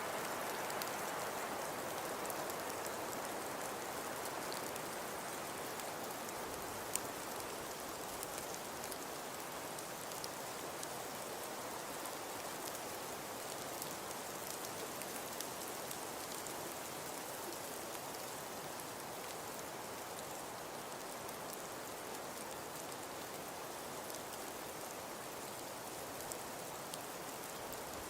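Falling snow: an even, steady hiss with a few faint ticks scattered through, easing slightly in level.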